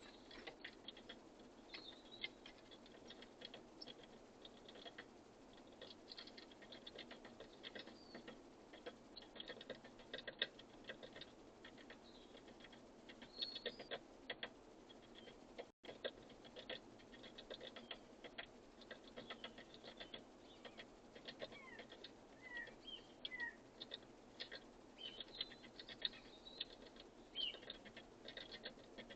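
Birds feeding at a bird feeder: many light, irregular taps and pecks on the feeder and seed. From a little past the middle there are a few short, faint bird chirps.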